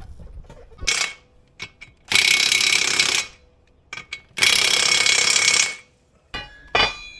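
An impact wrench hammering in three bursts, a short one and then two of about a second each, as it runs lug nuts on a tractor wheel. Near the end come a few sharp clinks of ringing metal.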